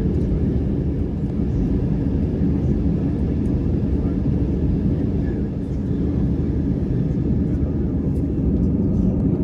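Steady low rumble inside the cabin of an Airbus A320 on the ground, the engines and airframe running with no change in level.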